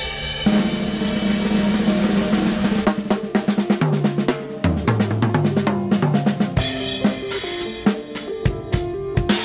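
Acoustic drum kit played freely, with dense strokes on snare, bass drum and cymbals, over sustained pitched tones that shift in steps.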